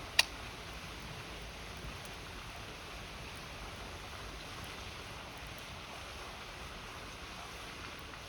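Steady rushing of a river under the crackle of a wood campfire; one sharp, loud pop of burning wood just after the start, then a few faint crackles.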